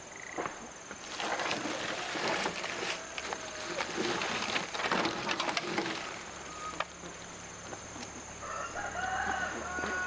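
A rooster crowing once near the end, a call of a few held, stepped notes, after a stretch of rustling, scratchy noise.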